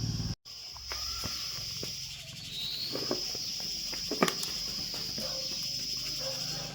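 Insect calling in a shrill, high, steady buzz that swells up in pitch, holds for a couple of seconds and starts again. A few light clicks or taps come through, the loudest a little past the middle.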